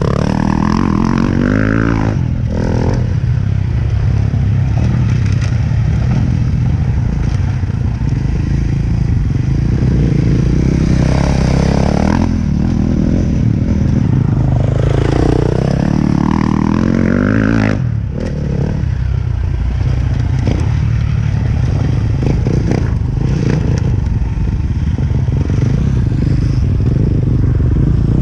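Two-stroke dirt bike engine running under load, revving up and falling back repeatedly as the throttle is worked.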